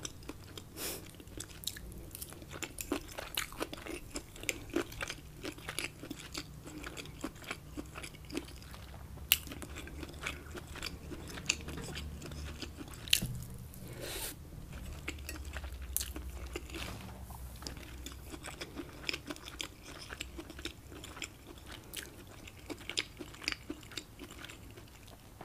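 Close-miked ASMR chewing and biting of rice with shrimp and scallops: a dense run of short mouth clicks.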